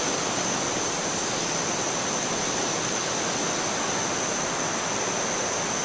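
Steady rushing noise with no crackles or breaks, and a thin high whine held steady over it.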